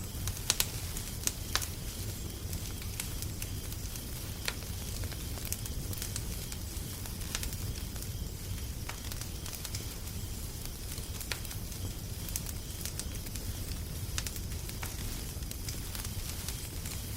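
Wood fire crackling, with irregular sharp pops and snaps over a steady low rumble; a few louder pops come close together about half a second in.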